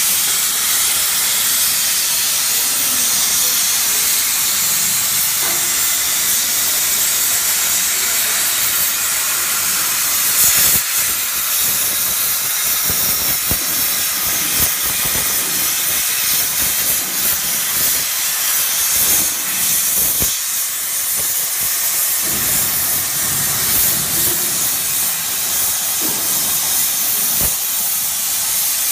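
Cutting torch of a gantry CNC plate-cutting machine hissing steadily as it cuts through metal plate.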